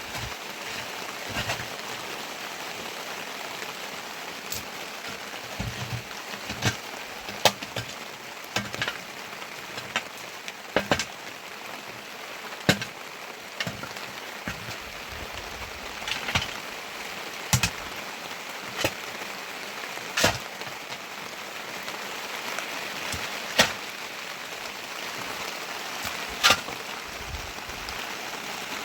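Steady rain, with heavy drops landing as sharp taps at irregular intervals, roughly one every second.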